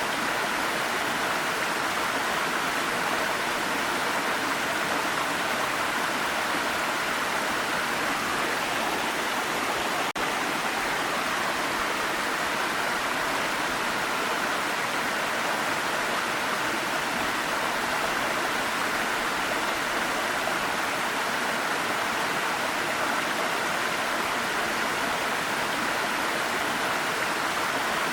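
Waterfall: water pouring in a steady, even rush, with one brief dip in level about ten seconds in.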